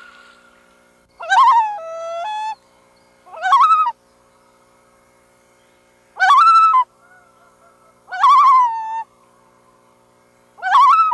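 Loon calls: five short, wavering calls about two seconds apart, some trailing off into a held, steadier note. A faint steady hum lies underneath.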